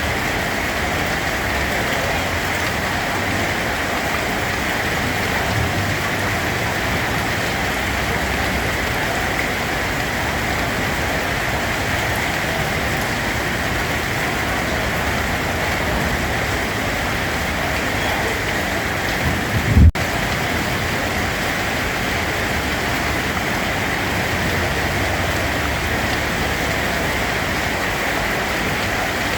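Steady, even rain falling. About two-thirds of the way through there is one brief low thump, the loudest moment.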